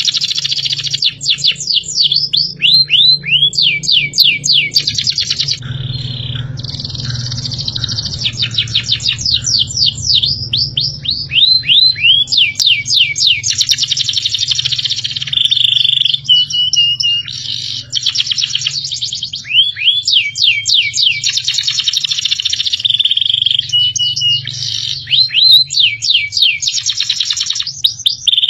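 Small songbirds singing loudly and continuously: fast runs of sharp downward-sweeping chirps, broken now and then by short held whistled notes, over a steady low hum.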